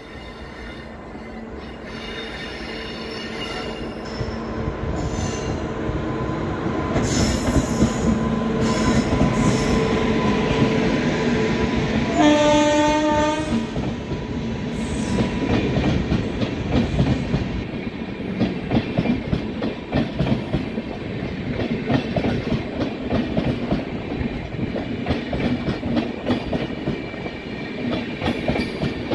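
Indian Railways 22626 double-decker express train, hauled by an electric locomotive, approaching with a steady hum that grows louder, then one horn blast of about a second and a half, roughly twelve seconds in. After that the double-decker coaches pass close by, their wheels clattering rhythmically over the rail joints.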